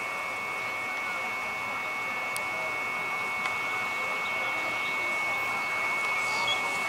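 Indian Railways EMU local train approaching the platform: a steady high whine over a hiss, slowly growing louder as it nears.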